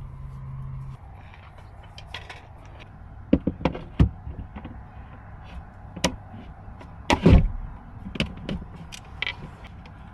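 Camping gear being handled and set up: a series of irregular knocks, clicks and short scrapes, loudest about three and a half and seven seconds in, after a low hum that stops about a second in.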